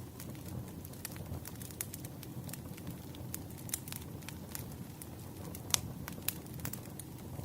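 Wood fire crackling: irregular sharp pops and snaps over a steady low hiss and rumble of burning logs, with one louder pop a little past three quarters of the way through.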